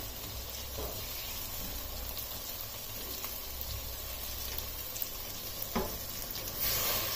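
Potatoes, peas and spice paste sizzling in oil in a steel pot, with a couple of light ticks. Near the end, water poured in from a jug hits the hot pot, and the sizzle swells into a louder hiss.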